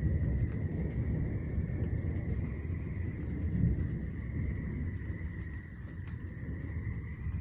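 Low rumble of distant thunder, swelling a few seconds in and easing off near the end, over the steady high trill of night insects.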